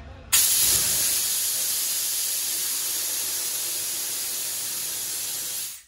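Compressed air blasting from the full tank of a 60-litre Leopard air compressor, released to show its pressure: a loud hiss that starts suddenly about a third of a second in, eases slightly as the tank empties, and cuts off just before the end.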